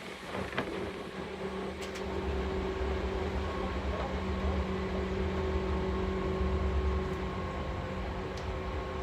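Inside a Seibu 4000 series electric train car under way: a steady low rumble of the running gear with a constant hum. The rumble grows louder about two seconds in and eases off a little near the end, with a couple of light clicks at the start.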